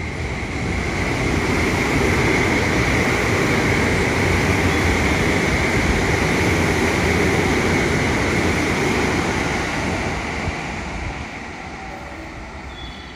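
A train passing through a station: the rushing noise of wheels on rail swells over the first couple of seconds, holds, then fades away from about ten seconds in.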